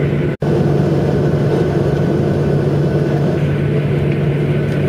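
Steady drone in an airliner's cabin while it taxis after landing: the jet engines at idle and the cabin ventilation, with a steady low hum. The sound drops out for an instant about half a second in.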